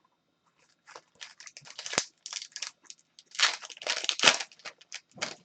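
Foil wrapper of a trading-card pack crinkling and tearing as it is opened by hand, in a quick run of rustles with a sharper click about two seconds in.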